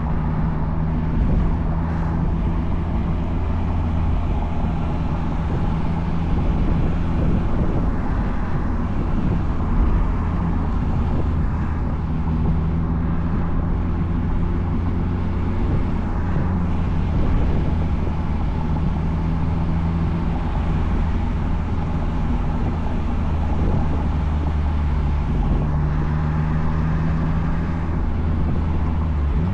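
2004 Mazdaspeed Miata's turbocharged 1.8-litre four-cylinder running through a Flyin' Miata cat-back exhaust at a steady cruise, its low engine note holding fairly even with slight rises and falls. Wind and road noise come in through the open top.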